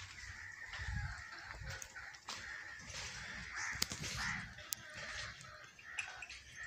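Birds calling, over a low rumble on the microphone.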